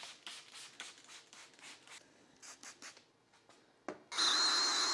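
A few soft rubbing strokes on the wet headlight lens. About four seconds in, a drill starts and runs with a high, slightly wavering whine over the hiss of its 500-grit sanding disc working the plastic lens.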